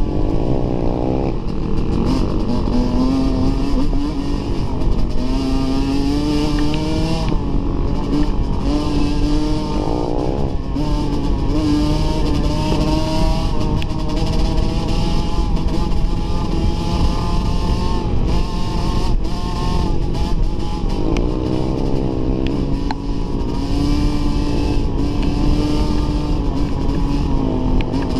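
Dirt bike engine under way on a trail, revving up and dropping back repeatedly as it shifts through the gears, with wind and rattle noise over it.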